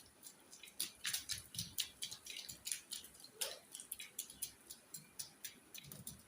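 Heavy rain dripping close by: irregular sharp taps of drops landing, several a second.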